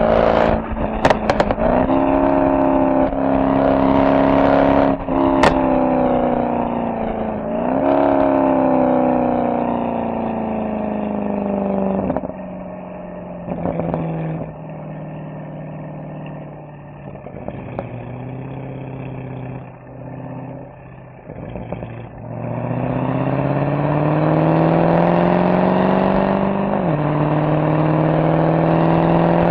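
Mercedes-AMG SL63's V8 exhaust under way: the engine pulls up in pitch and drops suddenly at each gearshift, with a few sharp exhaust cracks in the first six seconds. It settles to a quieter, lower drone through the middle, then accelerates again, with an upshift and another climb near the end.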